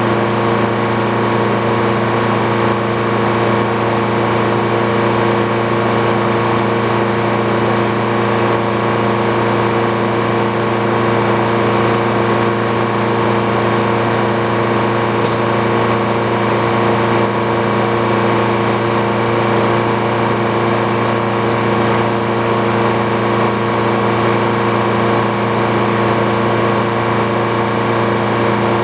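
Engine driving an old Frick sawmill, running at a constant speed with an unchanging pitch.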